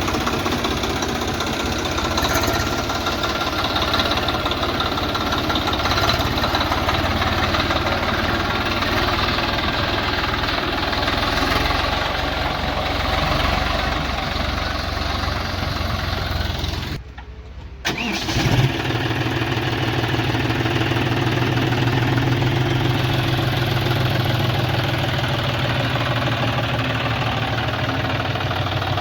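Swaraj 744 XT tractor's three-cylinder diesel engine running steadily while it pulls a rotavator through wet mud. About two-thirds of the way in the sound drops out for about a second, then the engine note comes back steadier, with a stronger low hum.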